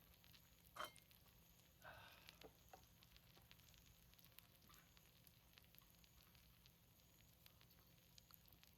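Faint sizzling of a seafood pajeon frying on a cauldron lid over a wood fire, with a few soft clicks, the loudest about a second in and again about two seconds in.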